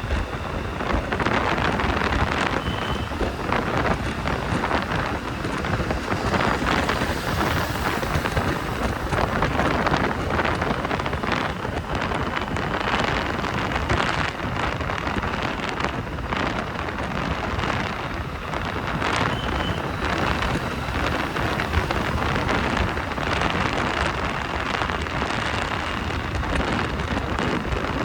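Steady rush of wind buffeting the microphone on a moving motorbike, mixed with the hiss of rain and wet road, with short irregular gusts throughout.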